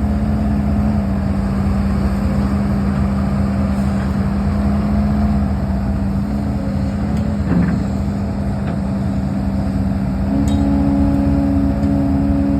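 HIDROMEK HMK230LC excavator's diesel engine running steadily at working speed, with a brief dip in pitch about halfway through and a second, higher tone joining near the end.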